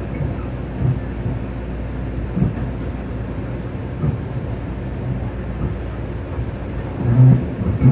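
Long Island Rail Road electric commuter train heard from inside the car while under way: a steady low rumble with a soft thump about every second and a half, and a louder thump near the end.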